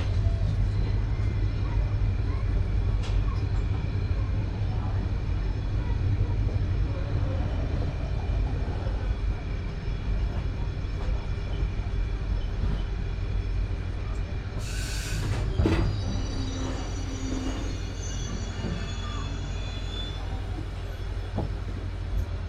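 Passenger train running on the rails: a steady low rumble of the coach with high wheel squeal over it, and a burst of hiss lasting about a second around fifteen seconds in.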